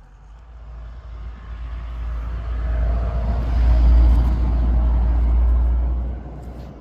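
A motor vehicle passing by, its sound swelling to a peak about four seconds in and then fading away.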